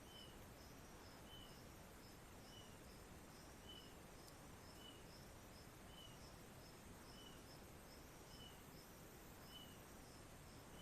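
Faint rainforest ambience: a soft hiss, with a small chirping call repeating about once every second and a fainter high pulsing call about three times a second, typical of forest insects or birds.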